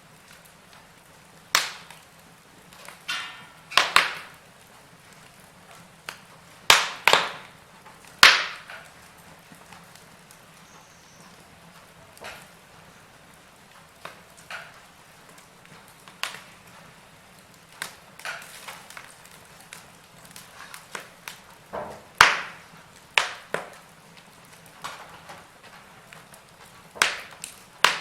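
Wood fire crackling in a fireplace: irregular sharp pops and snaps, a few of them much louder than the rest.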